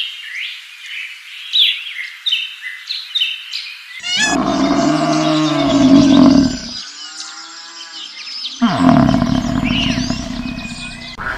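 Birds chirping, then a large animal's loud, low call about four seconds in and another a few seconds later.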